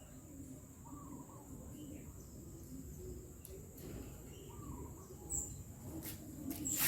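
Faint bird chirps in the background over a low rumble, with a few light clicks near the end and one sharp click at the very end.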